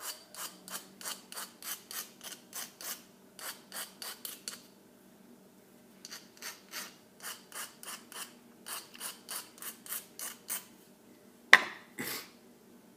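Hand rasping strokes on a small workpiece, about three a second, in two runs with a short pause between them. Near the end come two sharp knocks, the first the loudest sound here, as of the piece or tool being set down.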